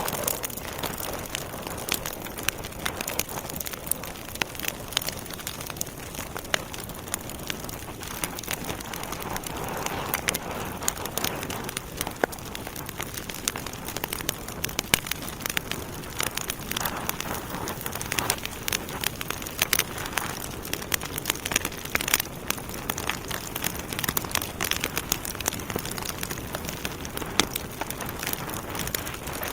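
Wood fire burning in a fireplace, logs crackling and popping with many sharp snaps over a steady hiss.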